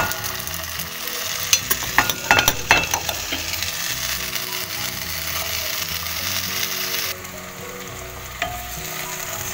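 Potato cubes sizzling in hot oil in a nonstick frying pan as they are stirred. A spatula knocks against the pan several times between one and three seconds in. The sizzle gets suddenly quieter about seven seconds in.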